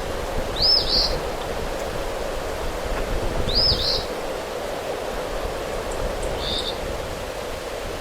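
A bird gives a short, high two-note chirp three times, about every three seconds, over a steady rushing background of wind and rain.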